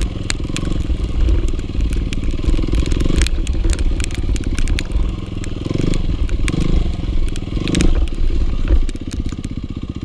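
Dirt bike engine running hard, its revs rising and falling, with many sharp clicks and clatter from the bike and the ground.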